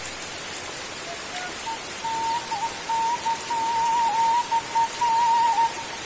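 Steady rain falling, an even hiss. About two seconds in, a thin, wavering high tone begins and holds over it.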